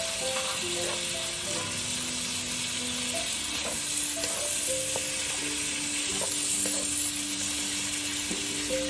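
Seafood and vegetables sizzling in a hot wok as they are stirred with a wooden spatula. Soft background music with long held notes plays underneath.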